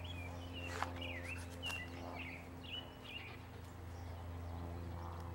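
Birds chirping, several short high calls in the first few seconds, over a steady low hum.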